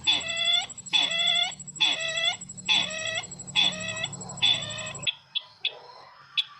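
Repeated calls of the bird known as sisintar ladang, used as a trapping lure: six evenly spaced, clucking, pitched calls, roughly one per second. They cut off abruptly about five seconds in, leaving a few short faint chirps.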